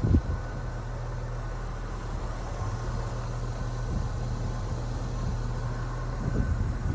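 1976 Chevrolet Blazer's engine running at a steady idle, with one short thump right at the start.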